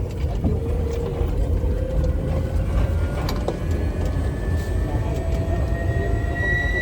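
Low steady rumble of a moving vehicle, with an engine or turbine whine that climbs slowly and steadily in pitch, as when the vehicle is gathering speed.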